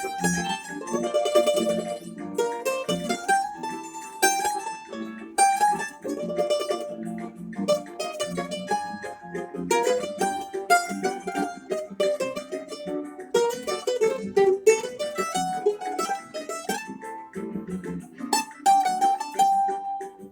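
Bandolim (Brazilian mandolin) playing a plucked melody, with lower notes sounding beneath it.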